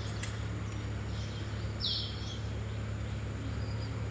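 Small bird chirping: a few short, high notes that slide downward, the loudest about two seconds in, over a steady low hum.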